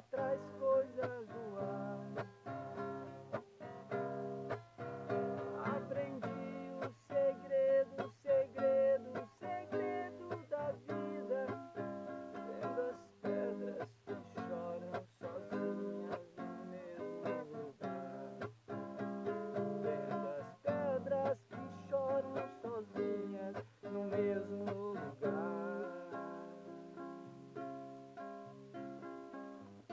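Acoustic guitar strummed in a steady rhythm, with a melody line bending in pitch above the chords.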